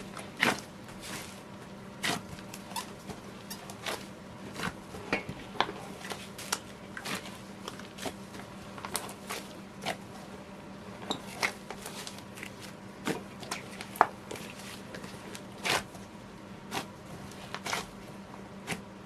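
Hands kneading a large mass of slime, making irregular sticky pops and clicks, roughly one or two a second, over a faint steady hum.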